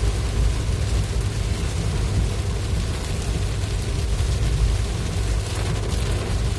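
Heavy rain together with the steady low rumble of a vehicle driving through it, with no break or change.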